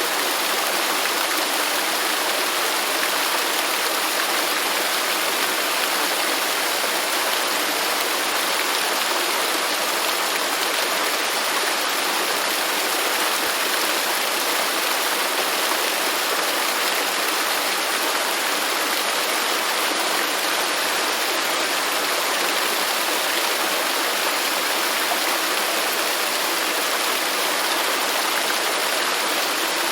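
Waterfall: water falling and rushing in a steady, unbroken hiss, with no breaks or distinct splashes.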